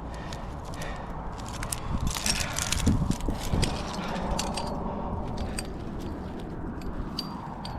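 Metal climbing gear, carabiners and protection on a harness, clinking and jangling in many short clicks, with scuffs and rustling as the climber moves.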